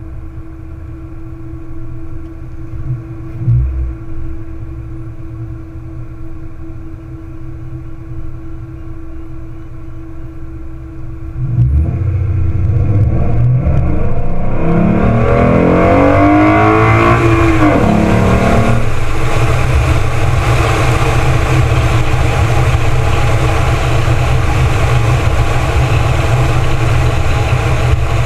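2014 Ford Mustang's 3.7-litre V6 idling steadily at a stop. About eleven seconds in it accelerates hard, its pitch rising and then dropping at a gear change, and it settles into steady cruising with wind rushing over the microphone.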